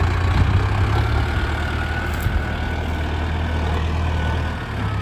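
Mahindra Arjun Novo 605 DI tractor's diesel engine running steadily with a low rumble, easing off near the end.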